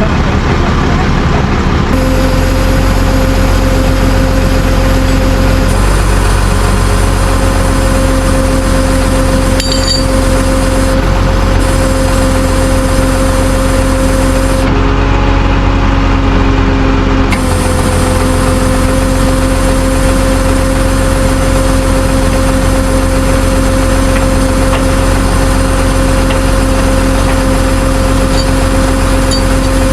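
Diesel tow truck running steadily, a low engine rumble under a constant whine that shifts slightly in pitch a few times.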